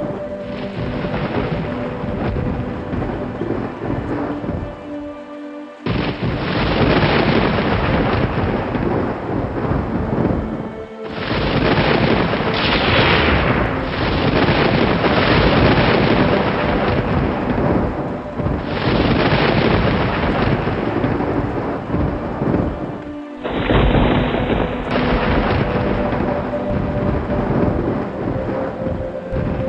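Thunderstorm: steady rain with rolling thunder, loud throughout. The sound cuts abruptly from one recording to another several times, with a faint steady tone lying underneath.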